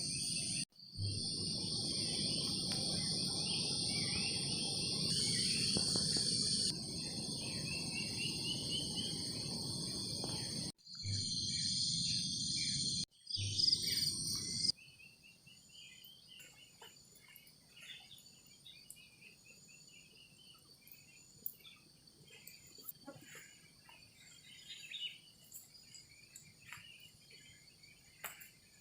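A chorus of insects, crickets among them, trilling steadily over a rushing noise, broken by several abrupt cuts. About fifteen seconds in it drops to a much quieter layer of insects with scattered short chirps.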